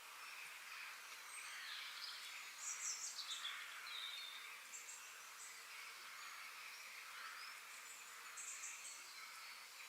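Forest ambience: small birds chirping over a steady background hiss, with a cluster of quick high chirps about three seconds in and another near the end.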